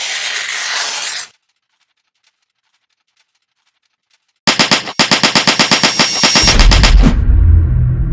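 A hiss cuts off about a second in. After a silent stretch comes a rapid run of sharp bangs like machine-gun fire, about ten a second for two and a half seconds. Music with a deep bass comes in near the end.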